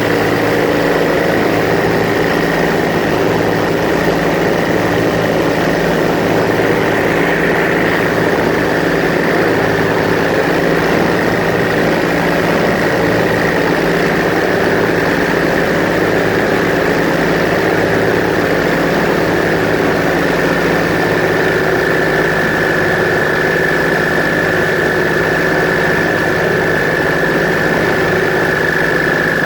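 Airboat engine and its large air propeller running steadily, a loud, even drone that holds nearly the same pitch throughout, dipping slightly about two-thirds of the way in.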